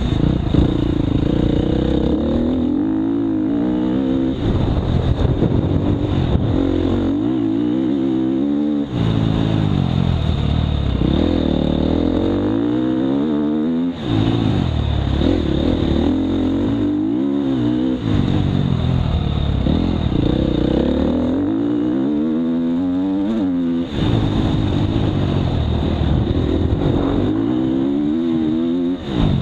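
Dirt bike engine revving up and easing off over and over, its pitch climbing and falling repeatedly with a few sudden breaks, heard from the rider's helmet.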